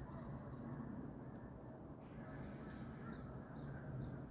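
Small birds calling in a chorus of short, high chirps, each note falling in pitch. The chirps come in quick runs near the start and again from about halfway through, over a steady low background rumble.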